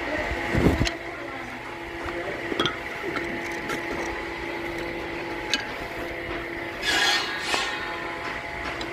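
Woodworking shop sounds: a machine hums steadily under scattered knocks and clinks of wood and tools, with a heavy thud about a second in and a short scraping rasp near the end.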